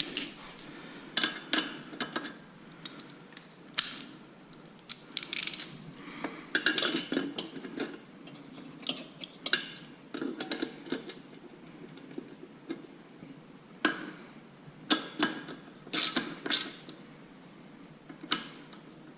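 Ratchet wrench clicking in short runs while bolts on a motorcycle exhaust mounting are worked, with clinks and rattles of metal tools and parts, in irregular bursts.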